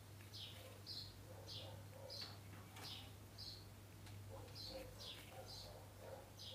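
A small bird chirping faintly, a short high chirp repeated about twice a second with a brief pause near the middle, over a low steady hum.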